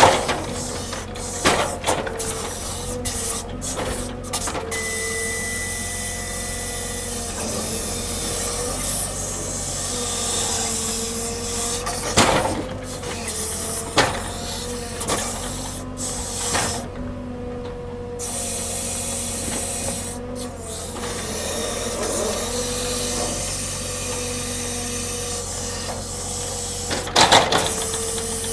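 Log-handling machinery running with a steady whine that wavers slightly in pitch. Several sharp knocks come near the start, in the middle and near the end, with some wood scraping as logs are handled.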